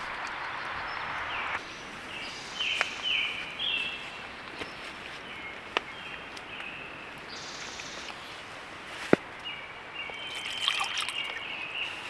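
Wood campfire crackling, with a few sharp pops, the loudest about nine seconds in, while birds chirp in short repeated notes.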